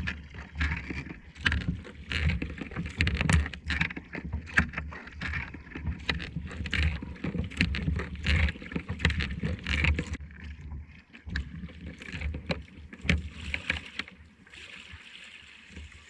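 Kayak paddling on a lake: the paddle blades dip and splash with water dripping off them, over a low rumble of wind on the microphone. The splashing eases off after about ten seconds.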